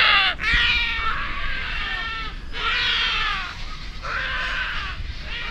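A bird calling over and over: a run of loud, wailing calls, each sliding down in pitch, about one a second.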